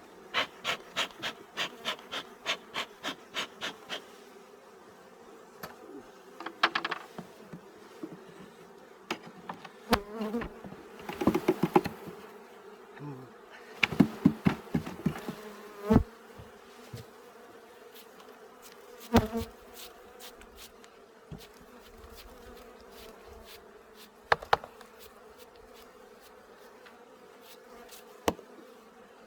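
Honeybees buzzing steadily at an opened hive. Over it come a quick run of about four clicks a second for the first few seconds, then scattered sharp knocks and rattles of wooden hive frames and boxes being handled.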